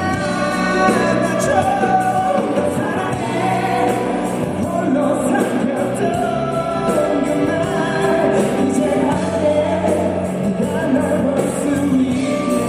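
Live pop ballad: a male vocalist singing over a band accompaniment, heard in a large concert hall.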